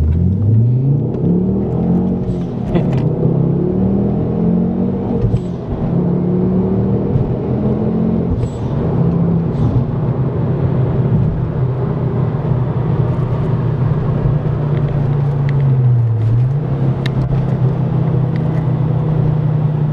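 Ford Focus ST's tuned engine through an aftermarket 3-inch Mongoose exhaust as the car pulls away. The engine note climbs in the first couple of seconds, rises and falls for several seconds, then holds steady, with a brief drop and recovery about three quarters of the way through.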